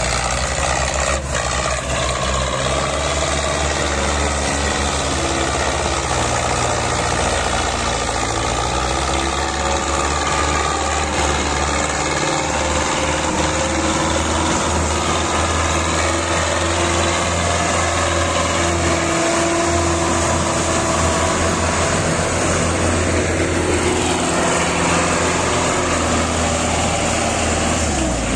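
Small motor of a homemade model tractor running steadily, a constant hum with a busy mechanical buzz over it.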